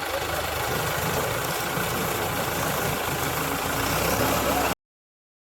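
Engine of a sugarcane harvester running steadily, cutting off abruptly near the end.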